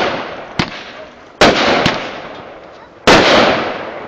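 Aerial fireworks bursting: two loud bangs about a second and a half apart, each followed by a long fading echo, with smaller sharp pops in between.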